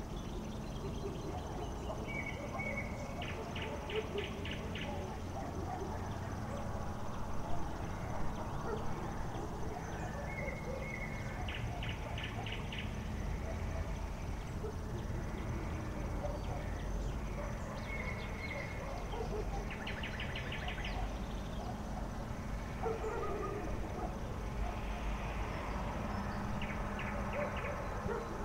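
A bird repeating the same short song phrase about every eight seconds: a brief flat whistle followed by a quick run of clipped notes. Under it runs a steady low rumble with a faint hum.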